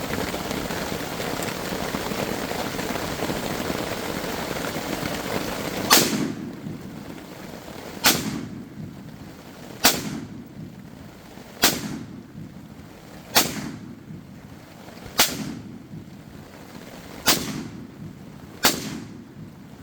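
Steady rain hiss for about six seconds, then a suppressed AR pistol with a 10.5-inch barrel fires eight single shots, about two seconds apart.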